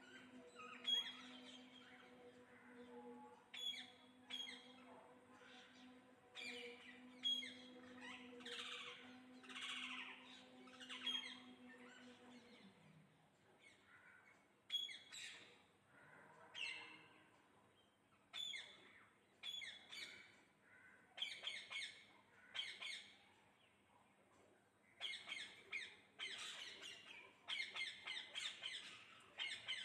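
Parrots chirping and squawking in short, repeated calls, coming thicker near the end. A low steady hum underneath stops a little before halfway.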